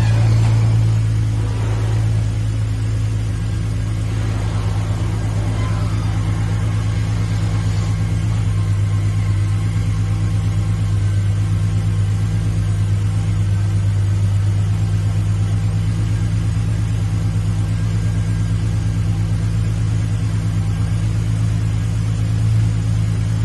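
An engine running steadily at idle, a loud, even low hum that doesn't change in speed.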